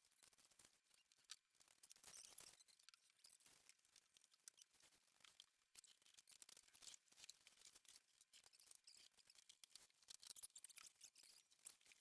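Near silence, with faint, irregular clicking and crackling throughout.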